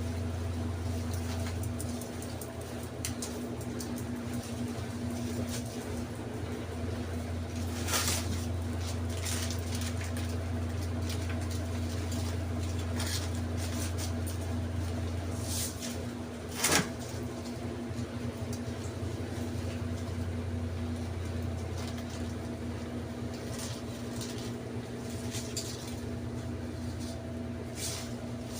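A steady low mechanical hum with scattered light clicks and knocks, the loudest a sharp knock about two-thirds of the way through.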